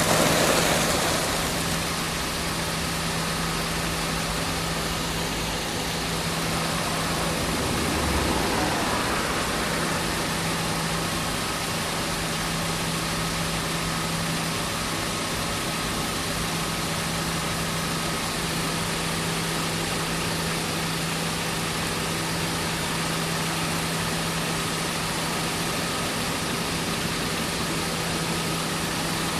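A steady low mechanical hum over an even hiss of noise, like an engine or motor running continuously, with brief swells in loudness at the start and about eight seconds in.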